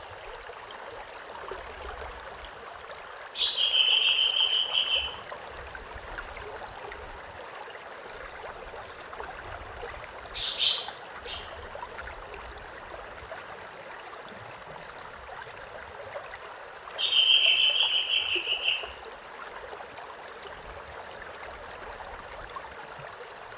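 River stream flowing steadily. A bird sings a short trilled phrase twice, about 4 s and 17 s in, with two short sharp calls between them.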